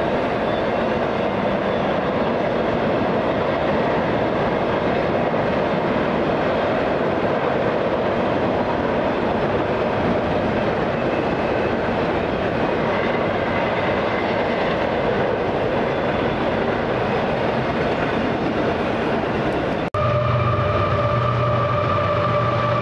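A train running on the track, a dense steady rail noise. About 20 seconds in it cuts off abruptly and a steady sound with a few held tones takes over.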